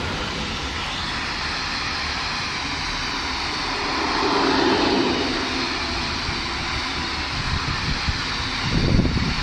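Train passing through a station: a steady rushing run that swells about four to five seconds in, with low uneven rumbling growing near the end.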